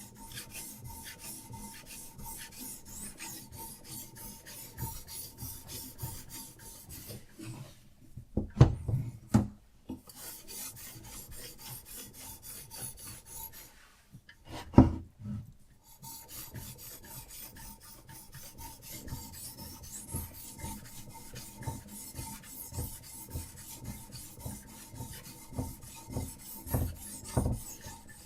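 Diamond sharpening stone on a Hapstone RS guided sharpener scraping back and forth along a steel knife edge in quick, even strokes. Twice the stroking stops for a few loud knocks, as the stone or blade is repositioned, before it starts again.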